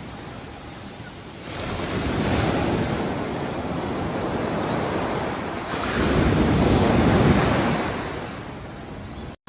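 Ocean waves surging in two swells: one builds about a second and a half in, and a louder one washes in about six seconds in and then recedes. The sound drops out for an instant near the end.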